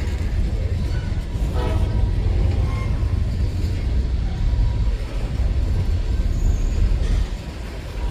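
Freight train passing with a heavy, steady low rumble that eases off near the end.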